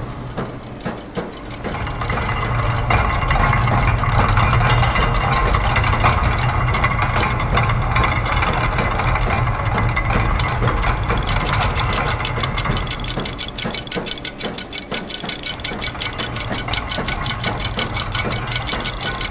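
Layered loops of factory machine sounds (gears, press, ratchets, clockwork springs, sewing machine) making a dense, rapid mechanical clicking over a steady low hum. The low hum drops away briefly past the middle, then returns.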